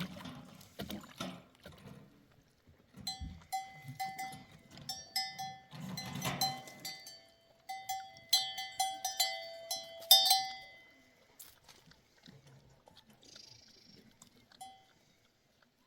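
Metal livestock bells clanking irregularly, many ringing strikes in quick succession, starting a few seconds in and dying away about two-thirds of the way through. Soft thuds and rustling come before the bells.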